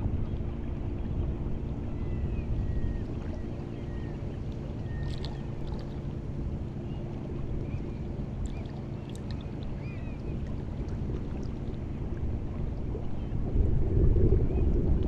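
Steady low drone of a motorboat engine running at a distance, with faint high bird chirps above it and a louder rush of wind or water near the end.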